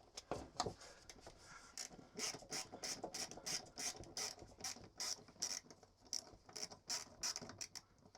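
Quick series of light clicks from a hand-held multi-bit screwdriver being worked, about three or four clicks a second.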